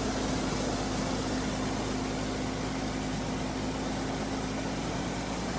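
1947 Dodge flathead straight-six engine idling steadily.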